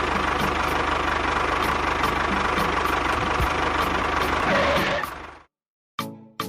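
Tractor engine running steadily with a fast, even beat, cutting off about five seconds in. Music starts near the end.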